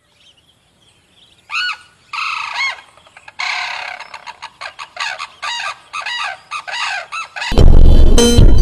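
A bird calling in a quick series of repeated notes that rise and fall in pitch. Loud music cuts in about a second before the end.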